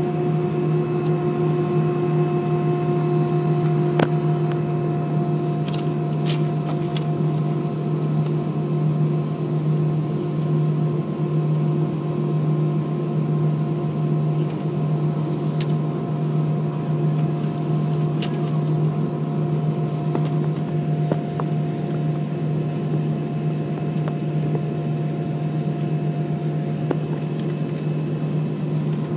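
Steady hum of an Airbus A320 airliner heard inside the passenger cabin: engines and cabin air running at a constant pitch and level, with a few faint clicks.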